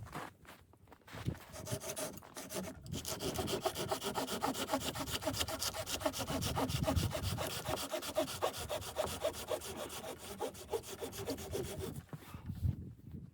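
Hand saw cutting through wood in quick, steady back-and-forth strokes, starting about a second in and stopping near the end.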